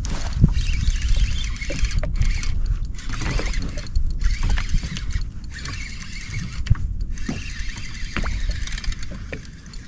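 Spinning fishing reel whirring in stretches of a second or more while a hooked snapper is fought on a hard-bent rod, with a low wind-and-water rumble on the microphone underneath.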